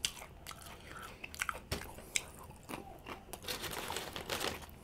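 Close-miked mouth sounds of a person chewing a mouthful of burrito: irregular wet clicks and soft crunches.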